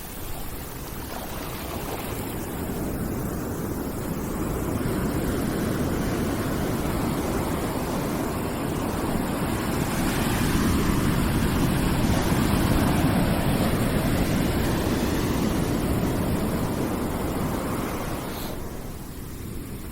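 Ambient rushing noise like breaking surf, swelling slowly over several seconds and then falling away near the end, as in a background noise track.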